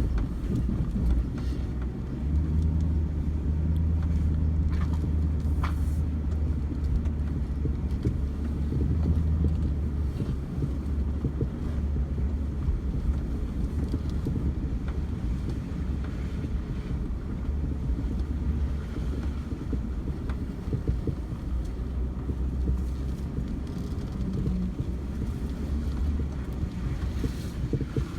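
A vehicle driving with its engine running steadily, a low rumble, with a couple of faint clicks about five seconds in.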